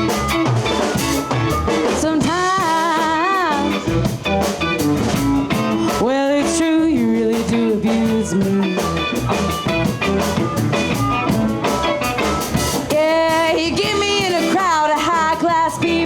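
Live blues band playing a steady groove on drum kit, bass, guitar and keys, with a lead line bending in pitch over the top at several points.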